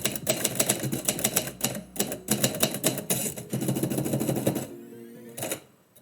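Typewriter keys clacking in quick runs of typing. The typing stops a little before the end, with one last sharp clack about five and a half seconds in.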